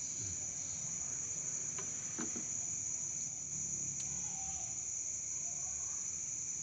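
Insects trilling in a steady, high-pitched drone, with a few faint clicks.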